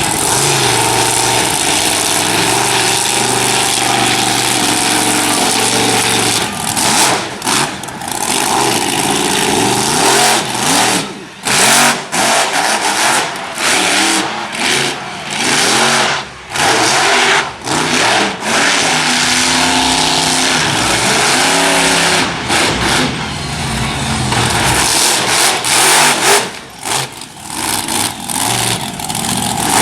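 Monster truck engine running hard and loud, its pitch rising and falling as the throttle is worked. From about a quarter of the way in, the sound cuts out and back in briefly many times.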